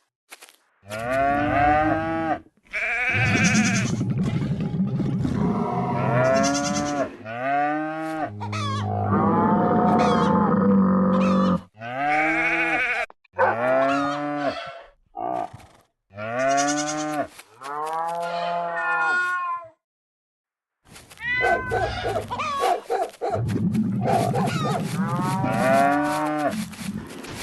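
Cattle mooing: a long series of calls, each rising and falling in pitch, broken by sudden cuts to silence as if separate clips were spliced together.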